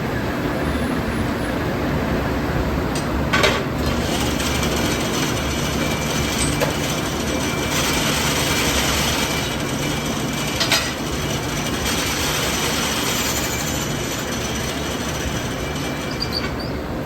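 Metalworking shop machinery running with a steady rumble and hiss, with two sharp metallic knocks, one about three and a half seconds in and one near eleven seconds.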